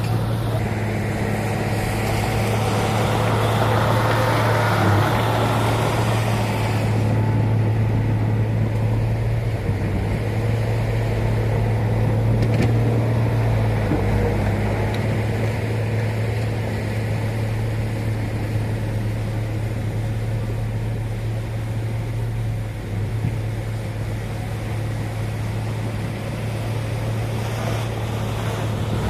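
Diesel engine of heavy earthmoving equipment running steadily with a deep, even hum. A rougher noise rides on top for the first seven seconds or so, then stops.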